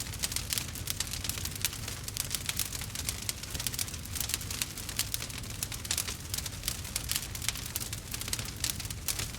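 Wood fire burning, with rapid dense crackles and pops from the burning logs over a low steady rumble.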